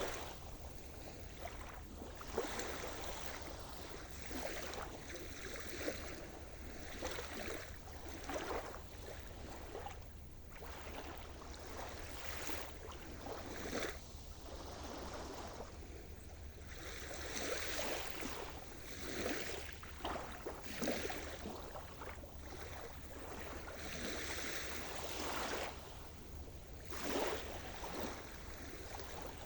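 Sea surf: small waves washing and breaking on the shore, swelling and easing every second or two with brief louder splashes.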